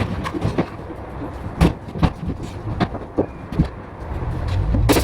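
Irregular knocks and clatter of interior carpentry work, with a low rumble building near the end.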